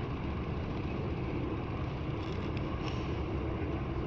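Steady low rumble with a few faint light clicks a little past halfway.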